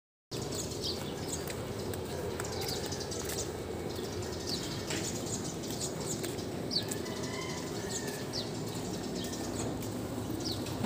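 A bird chirping, short high falling notes repeated about once a second over steady background noise.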